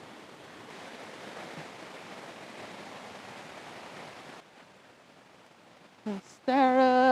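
Steady hiss of rain falling on dense tropical foliage, cutting off suddenly about four seconds in to a fainter background hiss; a voice starts near the end.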